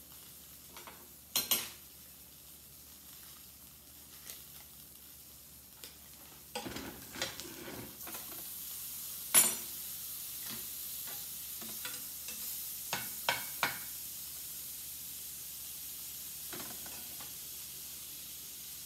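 Fried apple pie frying in hot butter in a skillet: a steady sizzle that grows louder about eight seconds in. A few sharp clicks of a metal spatula against the pan, the loudest about halfway through.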